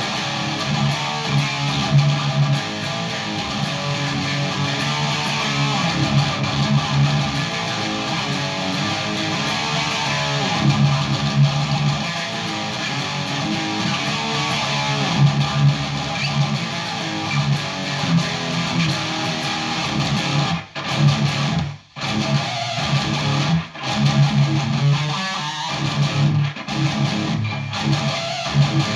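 Electric guitar, a 2014 PRS Custom 22, played through a Randall Satan 120 high-gain tube amp head: heavily distorted riffing with a strong low end, broken by several abrupt stops in the last third.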